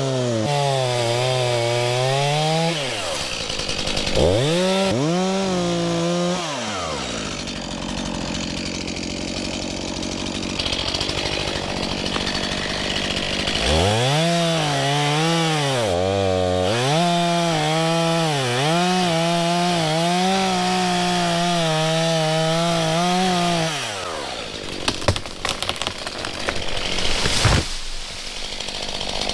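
Stihl chainsaw cutting into a rotten birch trunk, its engine note dipping under load and recovering. It runs at lower revs for several seconds midway, then cuts hard again. About 24 seconds in the saw note stops and a string of sharp cracks follows, with a loud snap near the end, as the tree gives way.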